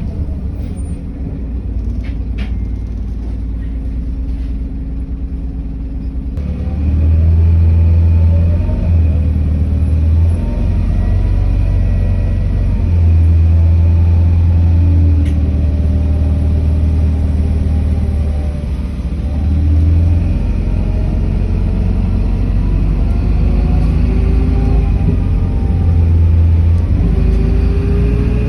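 City bus engine and drivetrain heard from on board, a steady low rumble with a whine that rises and falls in pitch as the bus accelerates and slows. It gets louder about six seconds in as the bus pulls away.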